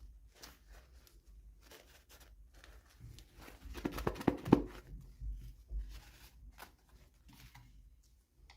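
Toy packaging being handled and opened by hand: short rustles and tearing of wrapping, with a denser run of sharper clicks and crinkles about four seconds in.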